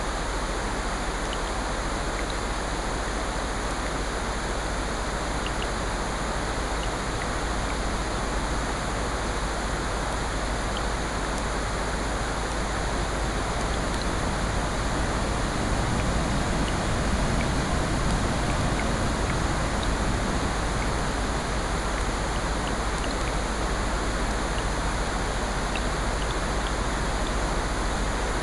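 Layered nature ambience: steady rain hiss mixed with ocean surf, with a wave swelling up over a few seconds about halfway through. Faint small crackles, as of a fireplace, prick through the mix.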